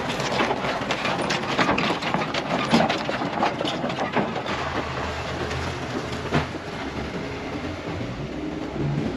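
Metal rattling and clanking over a running engine. The clatter thins out about halfway through, leaving a steady low engine hum.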